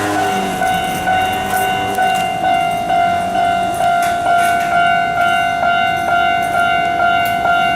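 A railway level-crossing warning bell rings steadily at about two strikes a second, with a train running underneath in the first couple of seconds.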